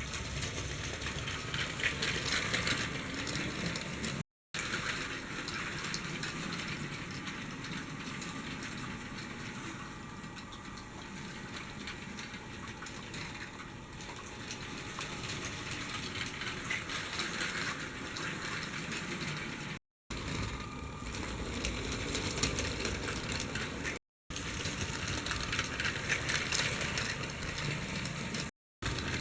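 Lego Powered Up freight train running on plastic track: a steady rushing rumble of motor and wheels that grows louder and fades several times as it passes, broken by a few abrupt cuts to silence.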